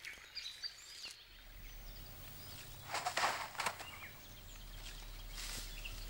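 Soft rustling and scraping as a leopard drags a prey carcass through the branches of a tree, in short bursts about three seconds in and again near the end, over quiet bush ambience with faint bird chirps. A low steady hum runs underneath from about a second in.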